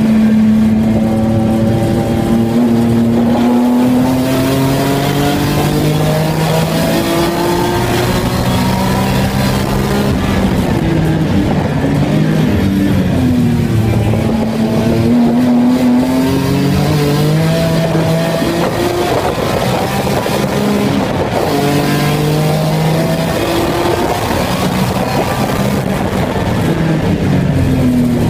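Race car engine heard from inside the stripped, caged cabin, pulling hard through the gears: its note climbs and then drops sharply at each shift, falling away under braking around the middle and again near the end before climbing once more.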